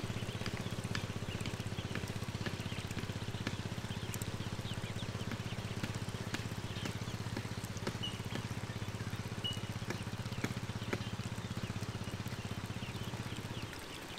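A flock of ducklings, with scattered faint peeps and a busy patter of feet and wet clicks on plastic sheeting, over a steady low hum.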